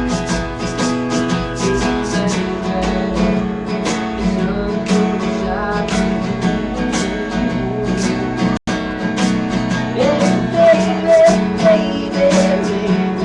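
Live acoustic band playing an instrumental stretch of a song, led by steadily strummed acoustic guitar, with a wavering lead line near the end. The sound cuts out completely for an instant about eight and a half seconds in.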